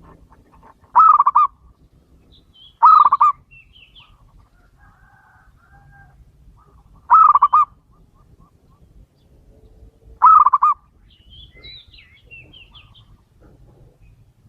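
Male zebra dove (perkutut) cooing: four short coos, each a quick stutter of notes about half a second long, spaced a few seconds apart. Faint high chirps of other small birds fall between them.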